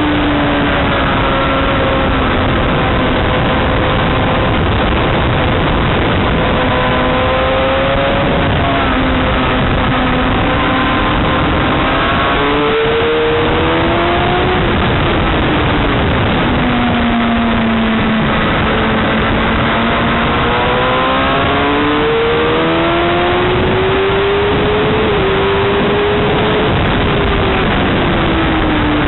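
A motorcycle engine running hard at racing speed. Its pitch sinks and climbs several times as the throttle opens and closes, over a steady rushing noise.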